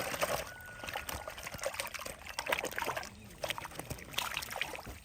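Water splashing and trickling, a busy run of small irregular splashes and drips that stops suddenly at the end.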